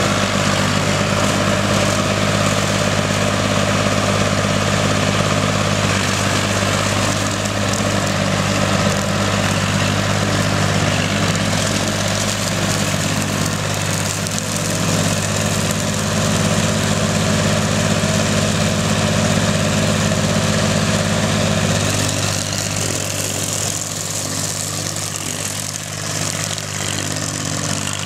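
Tractor engine running steadily with an even low drone, easing off slightly about 22 seconds in.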